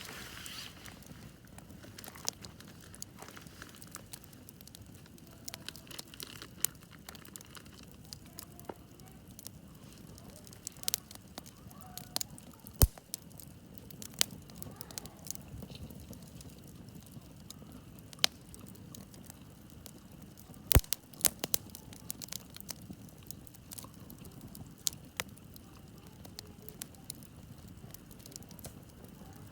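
Wood campfire crackling, with irregular sharp pops over a low, steady hiss of burning; two of the pops, about 13 and 21 seconds in, are much louder than the rest.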